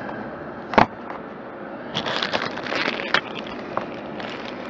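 Heat sink mounting parts being handled and fitted by hand: a sharp knock just under a second in, then a burst of clicking and scraping from about two to three seconds in, and a lighter click near the end.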